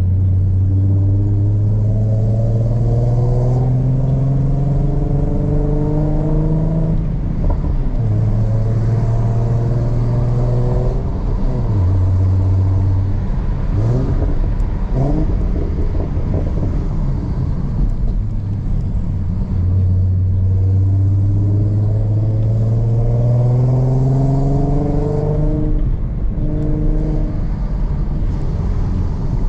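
Ford Mustang V6 (3.7-litre) running through a Roush aftermarket exhaust, pulling up through the revs in gear on two long climbs in pitch, each ending in a sudden drop as the throttle comes off. In the middle the engine note dips and rises in a few quick throttle blips, as if shifting gears, over a steady rumble of road noise.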